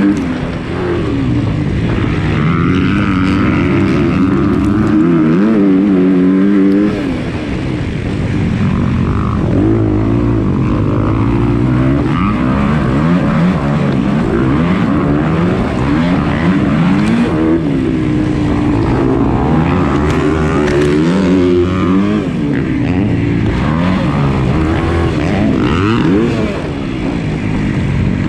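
Motocross bike engine racing around the track, revs rising and falling repeatedly as the rider opens and closes the throttle and shifts, with a couple of brief backings-off.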